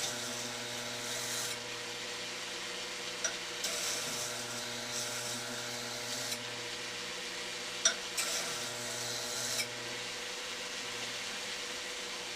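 Burr King belt grinder running steadily with a 120-grit belt while blade steel is pressed against it in three grinding passes of a couple of seconds each. Each pass adds a hissing grind over the motor hum, and there are a few sharp clicks.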